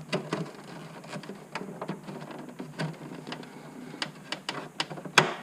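Irregular light clicks and knocks of battery-box parts being handled and refitted, with one sharper click about five seconds in.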